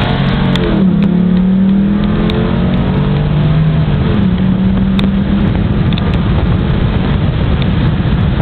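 Pontiac G8 GT's 6.0 L V8, with an aftermarket 228/240 camshaft, headers and stock mufflers, pulling at wide-open throttle, heard inside the cabin with the windows down. The engine note climbs with a gear shift about a second in and another about four seconds in. It fades under wind and road noise after about six seconds.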